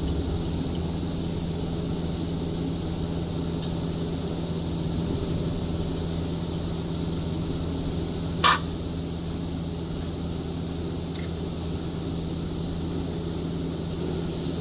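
Steady low hum of running machinery, with a single sharp knock a little past halfway.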